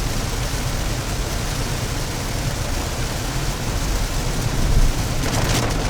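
Rain on a moving car with steady road and engine rumble, heard from inside the cabin as an even hiss, with a brief louder swish near the end.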